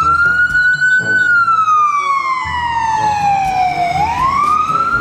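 Ambulance siren in a slow wail: the pitch rises, falls steadily for about three seconds, then starts rising again near the end.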